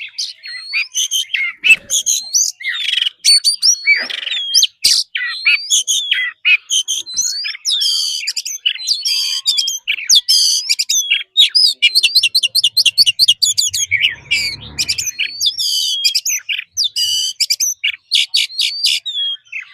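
Oriental magpie-robin singing a continuous, fast, varied song of whistles, chirps and trills, with a brief low rumble about two-thirds of the way in.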